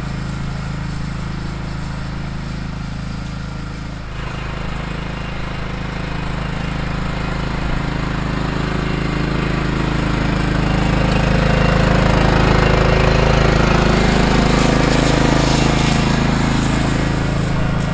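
John Deere LT155 lawn tractor engine running steadily while pulling a lawn roller over the seeded soil. It grows louder from about four seconds in, peaks around twelve to fourteen seconds, then eases slightly, as the tractor passes close by.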